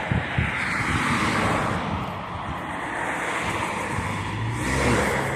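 Steady rushing outdoor street noise, rising slightly about a second in and again near the end.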